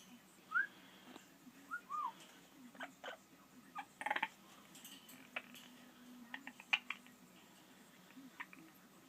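Pet parrot making a few short rising chirps in the first two seconds, then scattered sharp clicks and a brief rattle about four seconds in.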